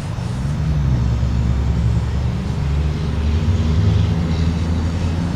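A motor vehicle's engine running, a loud low rumble whose pitch shifts a little.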